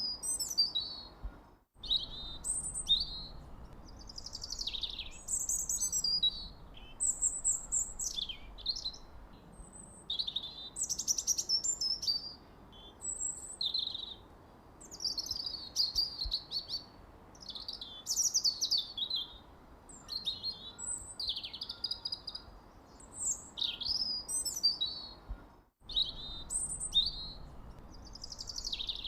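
Songbirds chirping and singing, many short high chirps and trills overlapping with little pause, over a faint background hiss. The sound cuts out for an instant about two seconds in and again near the end.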